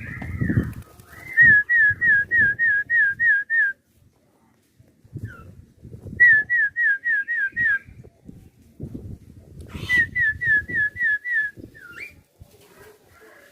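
Three runs of quick, clear whistled notes. Each note slides down in pitch, about three a second and five to seven notes to a run, with short gaps between runs. Low, irregular rumbling noises sound underneath.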